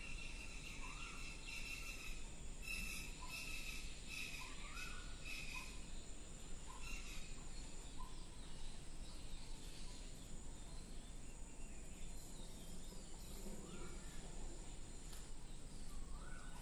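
Birds calling over steady background noise: a short rising call repeated about once a second along with higher calls, thinning out after the first several seconds.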